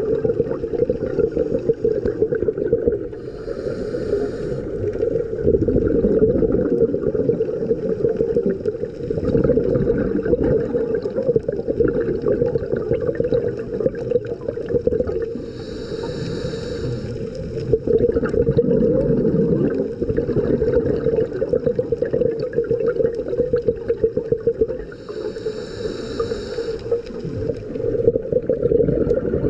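Underwater sound of a scuba diver breathing through a regulator: a two-second hiss of breath roughly every ten seconds, three times, over a steady low rumble of water and bubbles.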